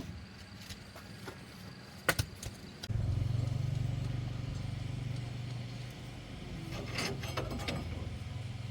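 An engine starts suddenly about three seconds in and runs at a steady idle with a fast, even pulse, settling a little lower about halfway through. A few sharp clicks come before it starts and again near the end.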